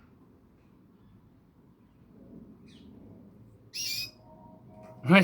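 Pet canary giving a single short, high-pitched chirping call about four seconds in, with a fainter brief chirp a little before it.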